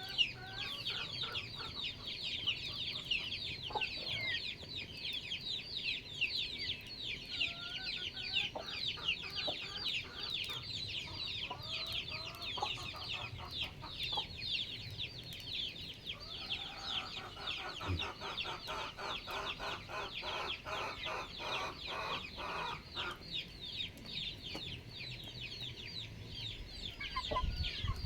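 Backyard chickens clucking over a dense, constant high chirping of small birds, with a longer run of rapid clucks a little past the middle.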